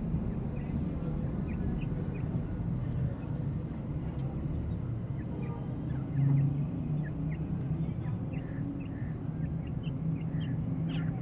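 Black francolin chick peeping: many short, high cheeps scattered through, over a steady low rumble.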